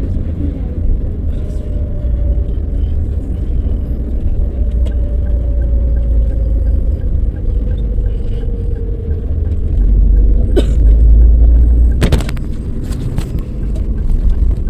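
Car driving, heard from inside: steady low engine and road rumble with a faint whine that slowly falls in pitch as the car slows, then the rumble grows louder as it speeds up again. A few sharp knocks come near the end.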